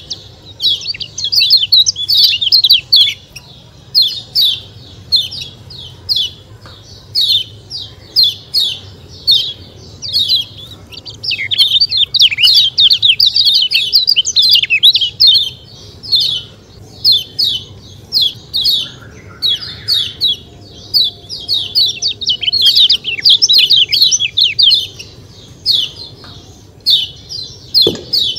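Kecial kuning (a small yellow white-eye songbird) calling 'ciak ciak' over and over: rapid, high chirps in dense runs separated by short pauses.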